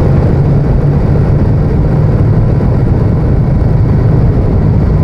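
Honda VTR1000F's V-twin engine running at a steady cruise under way, with rushing wind noise over it.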